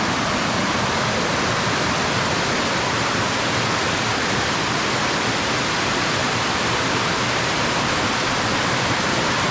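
Small waterfall pouring steadily, a constant rushing of falling water.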